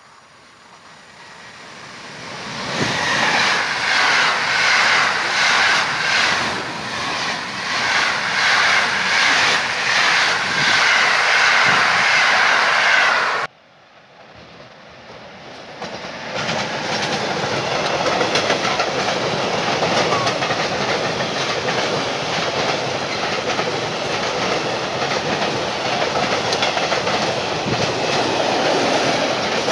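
A train passes close by with a rhythmic clatter of its wheels over the rail joints, then cuts off suddenly about halfway through. A long freight train of tank wagons hauled by an electric locomotive then rolls past, its wheels making a steady clattering rumble.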